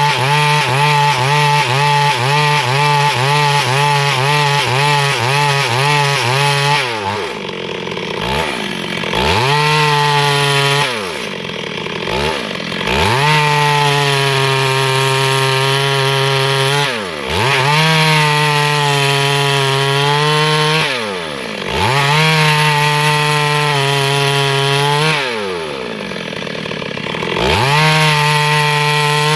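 Two-stroke chainsaw cutting wood into boards. It runs at high speed with the pitch wavering about twice a second, then is let off and revved back up about five times.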